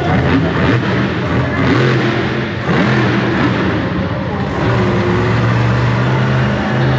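Monster truck engine running loud and revving, its pitch shifting and then holding steady in the second half, with voices in the background.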